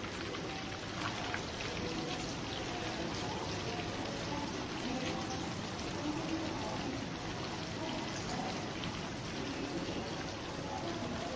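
Chicken frying in hot oil: a steady sizzle with many small crackles.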